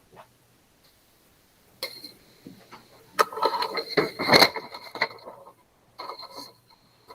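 Bursts of scraping, knocking and rustling handling noise, over a faint steady hum: about two seconds in, a longer stretch in the middle, and again near the end.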